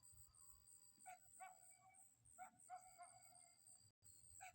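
Faint small dog barking, several short barks, some coming in pairs.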